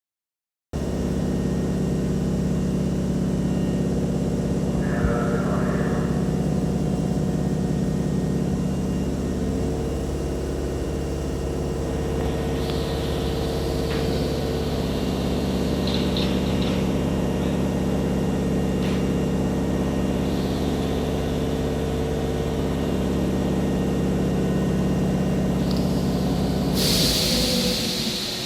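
Hankyu 6000 series electric train standing at the platform, its on-board equipment giving a steady hum with several held tones. Near the end a loud hiss of compressed air bursts out as it readies to depart.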